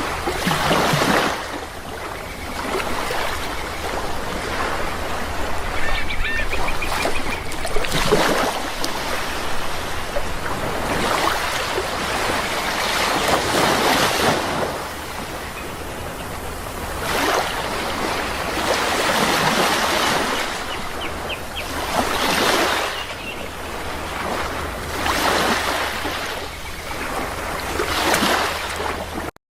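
Sea waves breaking and washing ashore, swelling and falling back every few seconds. Twice there are a few short bird calls, once about six seconds in and once about twenty seconds in.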